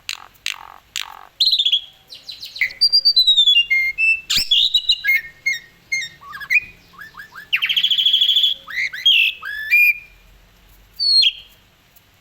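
Asian pied starling singing a varied, chattering song of whistles, rapid trills, sliding notes and clicks, broken by short gaps and falling quiet near the end.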